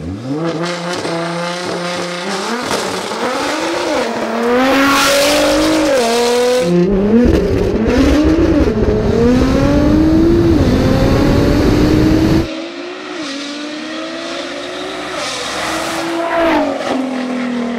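Nissan GT-R engine at full throttle on a street-race launch, its pitch climbing through the revs and dropping back at each of several upshifts. The sound drops off sharply about twelve seconds in, and lower revs follow.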